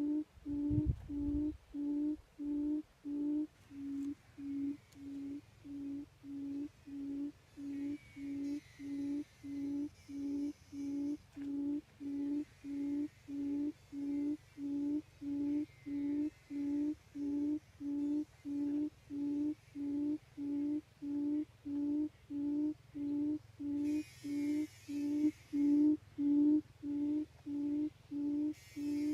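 Buttonquail call: one low hooting note repeated evenly about one and a half times a second, the call quail trappers use to draw the birds in.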